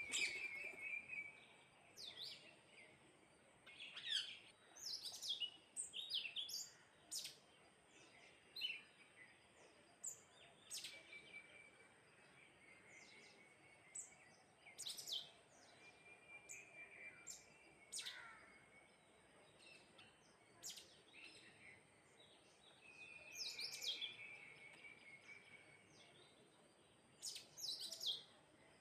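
Small birds chirping: many short, sharp chirps at irregular intervals, with a few brief trills.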